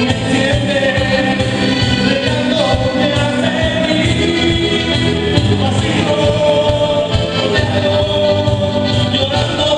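Band playing live with several voices singing held, sustained lines over a steady beat.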